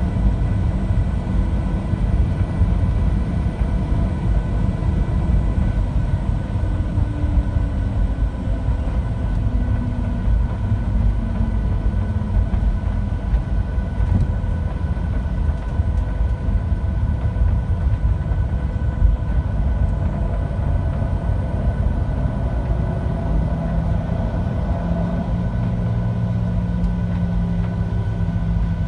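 Cabin noise of a Boeing 737-700: the CFM56-7 engines' steady low roar and airflow, with a thin steady whine. One engine tone slides down in pitch partway through, as the thrust is eased back.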